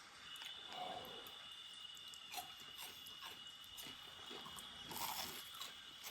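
Chewing of crunchy fried food with small crackles and clicks, under a faint steady high-pitched whine that begins just after the start and stops near the end.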